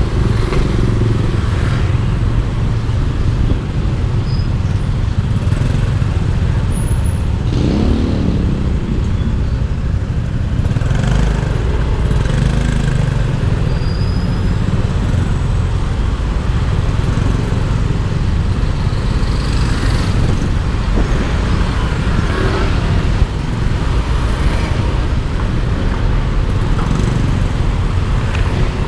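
Yamaha Aerox 155 scooter riding in traffic: its single-cylinder engine running and road and traffic noise with a heavy, steady rumble on the microphone.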